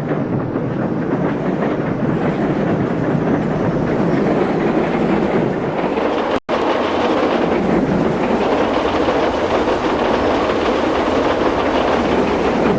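Train running, with a steady loud rumble and rattle of rolling stock, cut off for an instant about halfway through.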